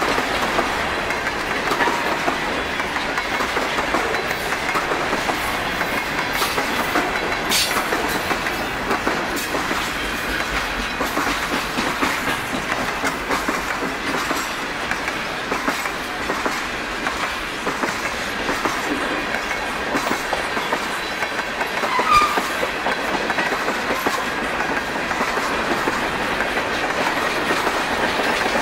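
Mixed freight train cars rolling past close by: a steady rumble of steel wheels on the rail, with a rhythmic clickety-clack over the rail joints and a sharp knock about a third of the way in.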